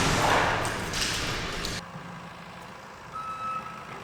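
A loud, even rushing noise that cuts off abruptly about two seconds in, then a vehicle's reversing alarm starts beeping near the end, one steady high beep about once a second.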